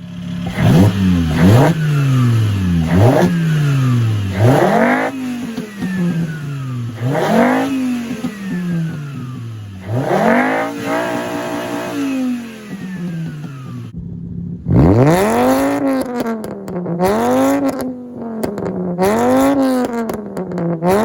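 VW Mk5 Jetta 2.5 inline-five, straight-piped from the catalytic converter, revved from idle in repeated quick blips, each rise falling straight back to idle. Near the middle it cuts to a steadier run of regular revs, about one every second and a half, with pops and crackles as the revs drop.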